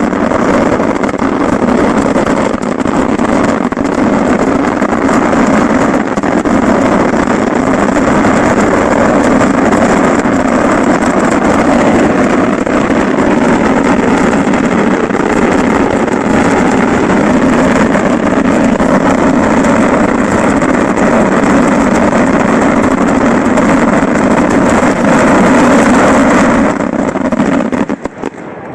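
Fireworks finale barrage fired at close range: shells and crackers going off so densely that they merge into one steady, very loud roar. It cuts off abruptly about two seconds before the end, leaving a few separate bangs.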